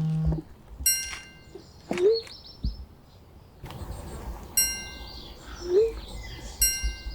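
A metal wind chime rings out three times with a bright, clear tone, while a bird chirps faintly.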